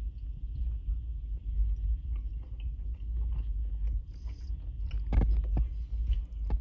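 A person chewing a bite of cooked goose breast, with small wet mouth clicks and a few sharper clicks about five seconds in, over a steady low rumble.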